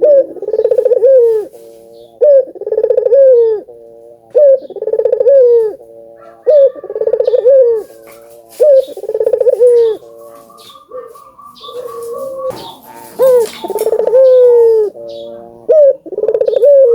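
Ringneck dove (burung puter) cooing over and over, each call a short note followed by a longer rolling coo, about one call every two seconds. Near the middle there is a brief pause in the pattern, with a higher trilled note and a short rustle.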